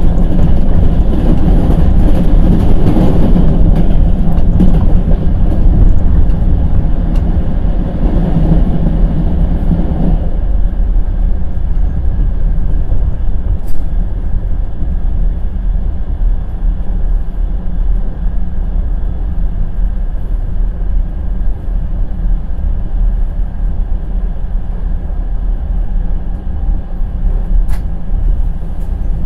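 Passenger express train's wheels clattering and rumbling on the rails. The sound grows noticeably quieter about ten seconds in, and a few sharp clicks come near the middle and near the end.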